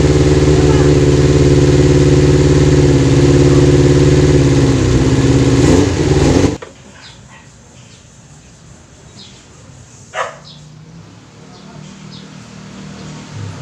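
Kawasaki GPz 400's four-cylinder engine running steadily, then cut off abruptly about six and a half seconds in. After it only faint background remains, with one short rising chirp near ten seconds.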